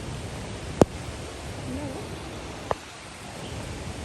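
Steady rushing noise of the river running below the bridge, with a sharp click a little under a second in and a smaller click near three seconds.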